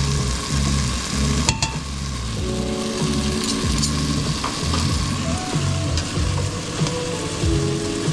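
Food sizzling in a hot frying pan, a steady hiss with a low shifting hum underneath and a sharp click about a second and a half in.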